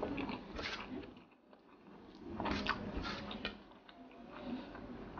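Close-miked eating sounds: a mouthful of rice and sardines being chewed, with sharp wet mouth clicks and smacks. There is a brief lull about a second and a half in, then a run of clicks.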